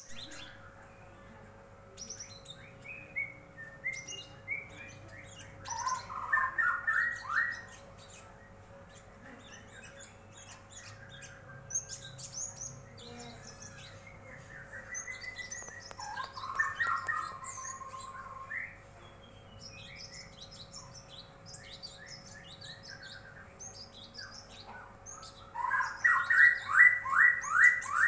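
A female cinereous tit and a murai calling back and forth: scattered high chirps, broken by three louder bouts of fast repeated notes, the last and loudest near the end. A faint steady hum runs underneath.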